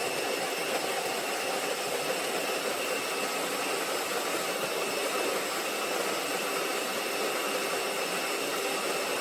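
Tuni G1 electric conical burr coffee grinder running steadily, its motor and burrs giving an even whir.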